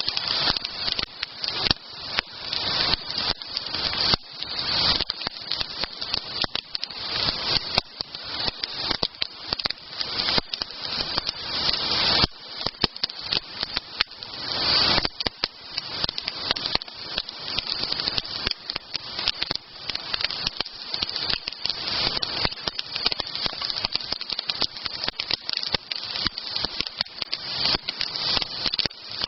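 Wood campfire crackling, with frequent sharp pops over a steady hiss.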